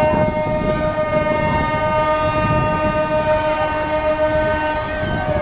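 A boat's horn sounding one long, steady blast that stops about five seconds in, over a low rumble of background noise.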